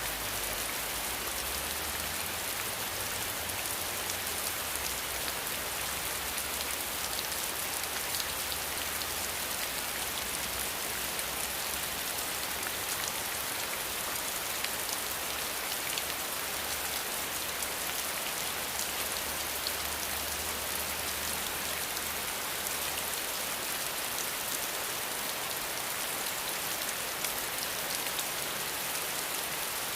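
Steady rain falling, an even hiss with individual drops heard as fine ticks. A faint low rumble sits underneath and fades out about two-thirds of the way through.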